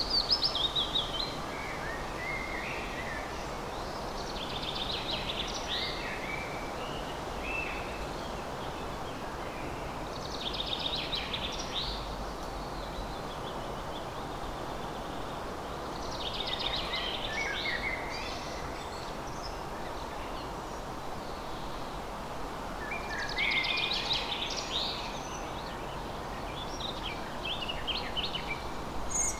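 A songbird singing short phrases about every five or six seconds, each a quick run of notes falling from high to lower, over a steady hiss of outdoor background noise.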